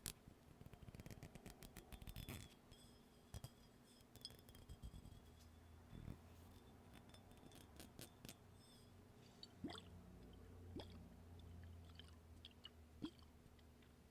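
Faint clicks and crackles close to the microphone: a quick run of them in the first two seconds or so, then scattered single clicks.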